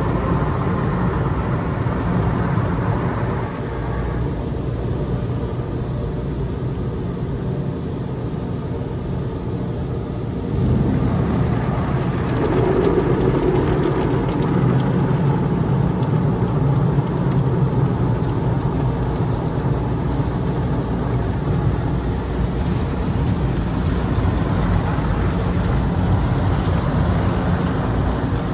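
Automatic tunnel car wash machinery running: a steady din of equipment and water spray with a low hum, easing slightly about four seconds in and growing louder about ten seconds in.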